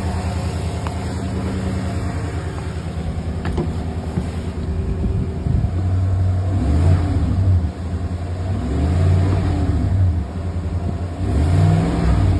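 Chevy Silverado 5.3-litre V8 running, fitted with a new belt tensioner pulley and serpentine belt. It idles steadily at first, then is revved up and let back down about three times in the second half.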